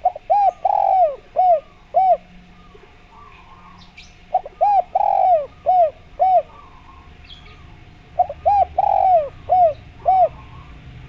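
Spotted dove (derkuku/tekukur) cooing: three phrases about four seconds apart, each a run of about six short coos with one longer, drawn-out coo near the start. Faint chirps from other birds and a faint steady tone sit beneath.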